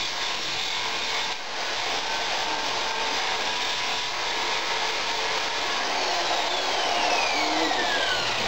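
Handheld power grinder grinding steel, cleaning up the tractor's broken motor mount so it can be re-welded. Near the end a whine falls steadily in pitch.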